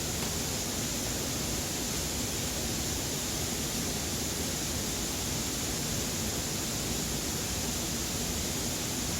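Steady, even rushing noise with a strong high hiss and no separate events.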